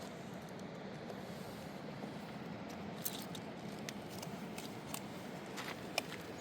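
Steady background noise, with scattered light clicks and taps starting about halfway through, the sharpest near the end.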